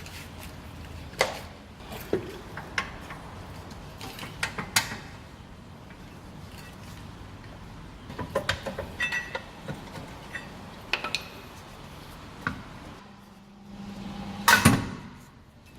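Metal hand tools and parts clinking and knocking at irregular intervals during work on a car's rear wheel hub, with a louder clatter near the end.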